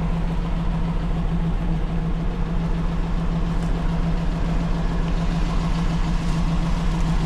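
Engine of a ranch buggy running steadily with a constant low hum.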